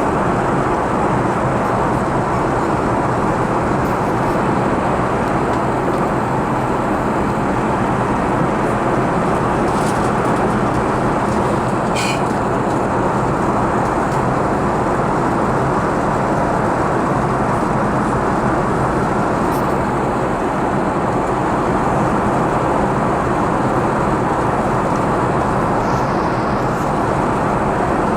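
Steady cabin noise inside an Airbus A380-800: an even rush of airflow and engine noise, unchanging throughout, with one faint brief high sound about twelve seconds in.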